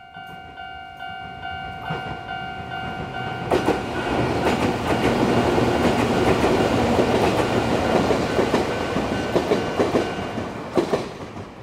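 Chichibu Railway electric commuter train passing close by: wheels rumble and clatter over the rail joints, building up, loudest for several seconds, then fading away near the end. A steady ringing tone sounds at first and stops about three and a half seconds in.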